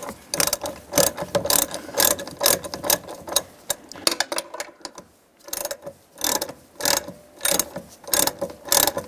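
Hand ratchet with a socket tightening the door-hinge bolts: repeated back-strokes, each a quick burst of pawl clicks, about two a second. There is a short pause near the middle, then the ratcheting resumes.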